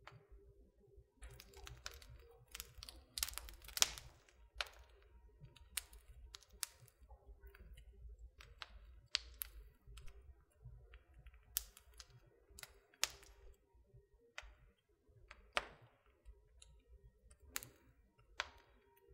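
Wood fire crackling in a fireplace: irregular sharp pops and snaps, a cluster of louder ones about three to four seconds in, over a faint low rumble of the burning.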